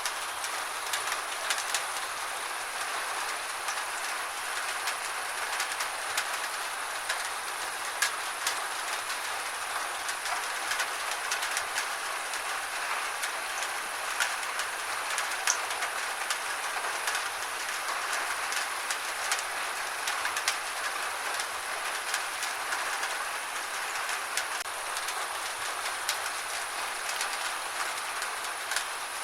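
Gentle rain falling steadily: an even hiss with many small, sharp drop ticks scattered through it.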